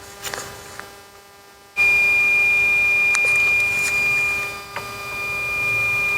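Hakko soldering station's buzzer sounding a steady high-pitched alarm tone that starts suddenly about two seconds in, while the iron's tip is being swapped out. A few small clicks of the tip being handled come before it.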